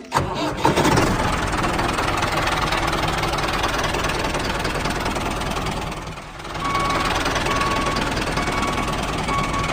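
A small motor running steadily with a rattle. It drops away briefly about six seconds in, then picks up again.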